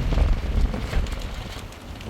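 Strong wind gusting against the microphone in a storm, a deep rumbling buffet with scattered crackles, easing off over the second half.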